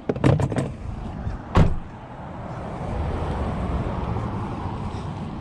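A few sharp knocks and clatters of scrap items being handled, the loudest about a second and a half in, followed by a steady rushing vehicle noise that swells and then eases.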